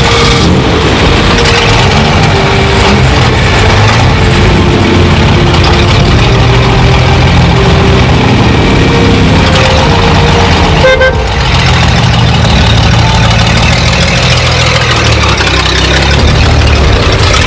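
Classic car engines running loudly close by as a vintage open tourer pulls away from the start line.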